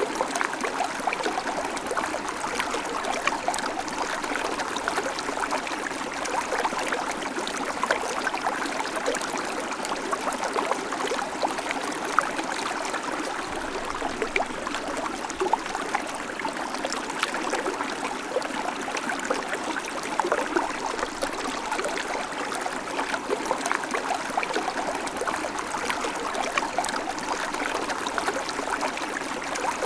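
Babbling creek: shallow water running and trickling over stones in a steady, even rush, dotted with small splashes and gurgles.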